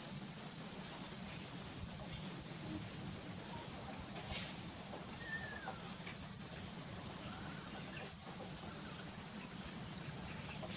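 Crickets trilling steadily in a high, continuous chorus. A few sharp clicks are scattered through it, and about five seconds in there is one short call that slides down in pitch.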